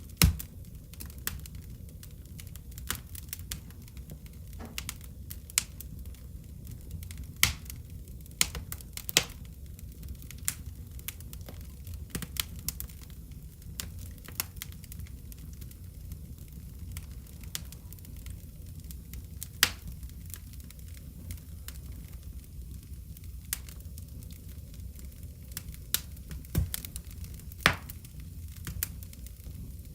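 Wood fire in a fireplace crackling, with sharp pops at irregular intervals over a steady low rumble of the flames.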